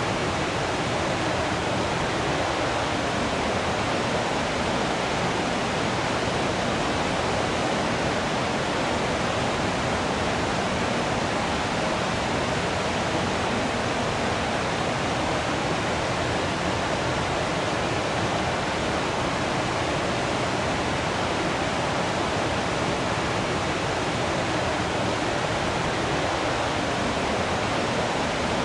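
Waterfall flowing: a steady, even rush of falling water.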